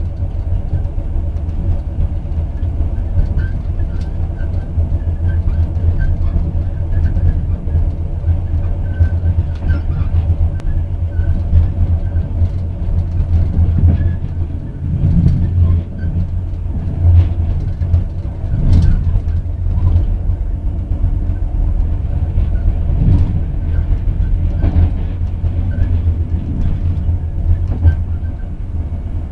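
Train running along the track, heard from inside the carriage: a steady low rumble with occasional knocks.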